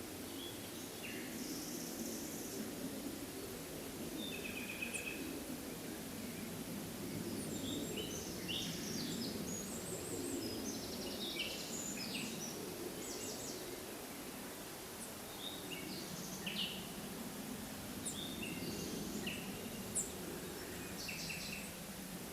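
Forest birds chirping and calling: many short high notes and brief trills scattered throughout, over a steady low rushing background noise.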